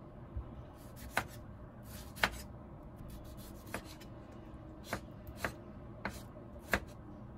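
White ceramic knife slicing through a tomato and tapping down on a bamboo cutting board: about seven sharp taps at uneven intervals.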